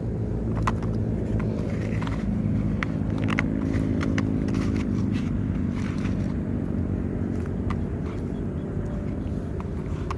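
An engine running at a steady low pitch, with scattered sharp clicks and knocks over it.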